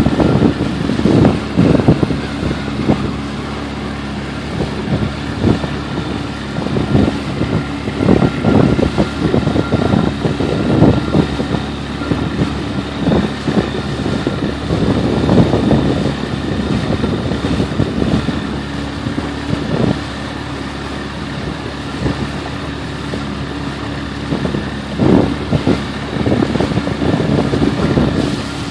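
Small motorboat's engine running steadily at cruising speed, with irregular buffeting of wind and choppy water against the hull and microphone.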